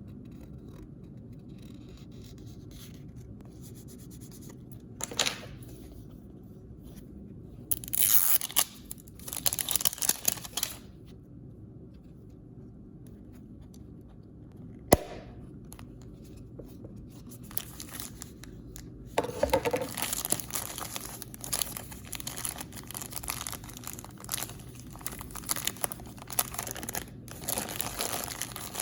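Blind-bag packaging being torn open and crinkled by hand. There are a few short tearing bursts, a sharp click near the middle, then nearly continuous crinkling and rustling through the second half.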